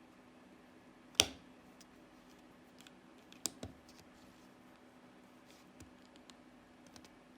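Plastic LEGO bricks clicking and tapping as they are handled and pressed together: one sharp click about a second in, two lighter ones a little after three seconds, and faint ticks between, over a low steady hum.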